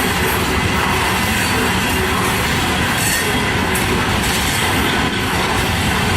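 Freight train cars rolling past close by: a steady, loud rumble of wheels on rail, with a faint high wheel squeal running through it.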